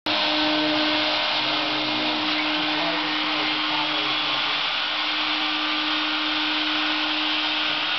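An electric motor running steadily at constant speed, a continuous whirring hiss with a steady hum under it.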